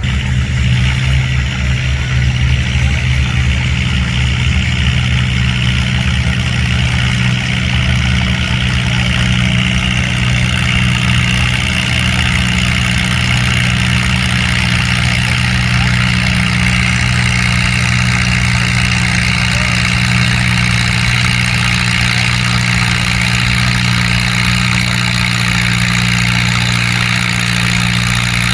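Farm tractor engine running loud and steady, its pitch holding nearly constant, the sound coming up suddenly at the start.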